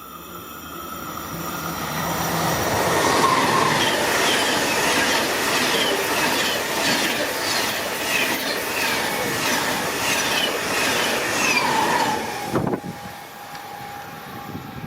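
ICE 1 high-speed train passing at speed. Its rolling noise swells over the first few seconds, then holds loud with a regular beat of passing cars, about three every two seconds. It cuts off abruptly about three-quarters of the way through as the end of the train goes by, leaving a faint steady tone.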